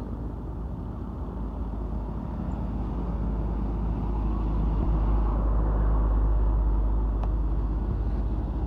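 Truck engine running with a steady low drone, growing somewhat louder a few seconds in and then holding.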